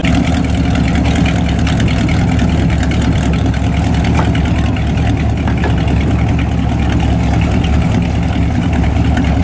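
Boat engine idling steadily: a low, even engine hum that does not change pitch.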